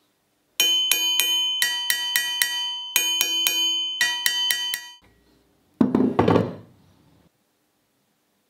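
A quick run of struck, bell-like notes, about three to four a second for some four seconds, in a short melodic pattern. About a second later comes a brief noisy burst, then silence.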